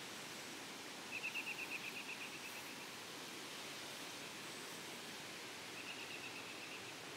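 A songbird sings a short rapid trill of evenly spaced notes twice, the first about a second in and fading away, the second softer near the end. Under it runs a steady outdoor hiss.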